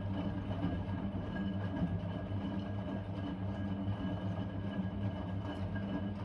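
Blomberg WA391 washing machine running during its cycle, its motor giving a steady hum with a faint high whine.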